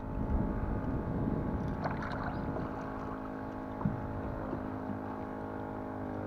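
Water lapping against a kayak hull, with a steady hum and a few faint knocks, the most distinct about four seconds in.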